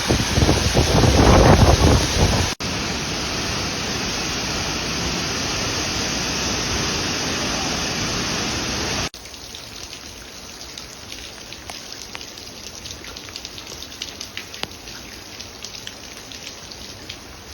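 Waterfall water rushing in a steady, even noise, with low wind rumble on the microphone for the first couple of seconds. After about nine seconds it cuts to a quieter stretch of falling water with scattered droplet patter.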